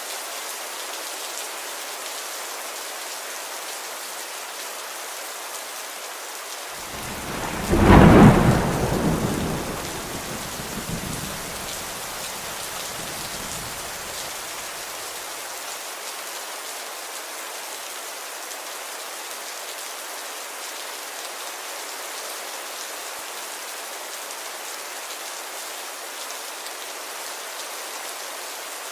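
Steady rain falling, with one roll of thunder about seven seconds in. The thunder is loudest about a second after it starts and rumbles away over the next several seconds.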